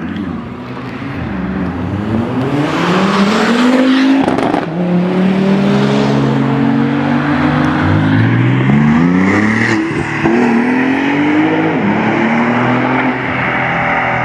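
Car engine revving hard under acceleration, its pitch climbing and dropping several times as the throttle is opened and closed, with a loud rushing noise about three seconds in.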